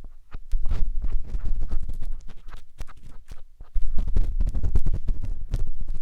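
Matchstick scratching and rubbing at the silicone ear of a 3Dio binaural microphone for ASMR ear cleaning: dense, irregular crackly scrapes over a deep rumble from handling right at the mic.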